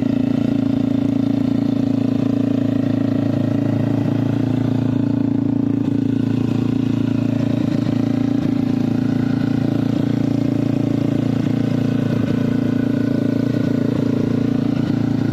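Motorcycle engine running at a steady idle, a constant even hum with no revving or acceleration.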